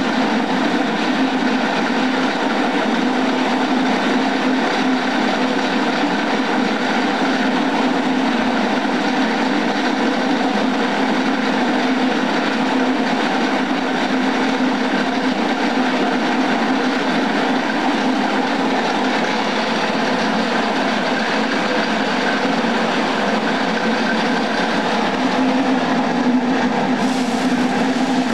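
Dry-soybean dehulling machine driven by a 750-watt electric motor, running steadily: a constant hum under a dense mechanical noise.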